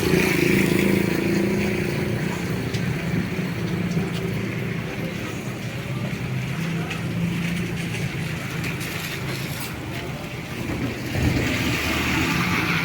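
A car's engine and road noise, a steady low hum, heard from inside the car, with the hiss of rain and scattered light taps of raindrops on the body.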